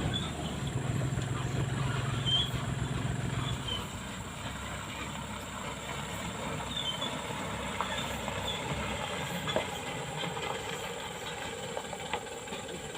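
A machine engine running steadily, then dropping away about four seconds in. After that there is a low background hiss with a few light knocks.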